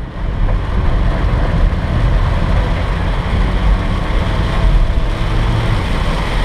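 Heavy rain pelting the car's roof and windshield, a steady dense hiss over the low rumble of the car driving, heard from inside the cabin.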